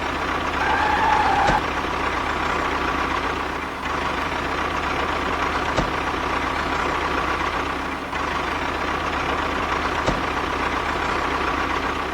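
Small electric motor of a DIY model tractor whirring steadily with a thin constant whine, with a few faint ticks.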